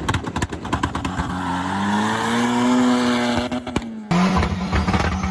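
A car engine held at high revs, with a rapid run of sharp cracks in the first second, then a steady note whose pitch rises a little and falls back. About four seconds in it breaks off abruptly and another steady engine note takes over.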